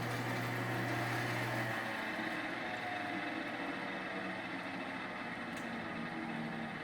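Portable sawmill's engine running steadily, with a low hum that drops out a little under two seconds in.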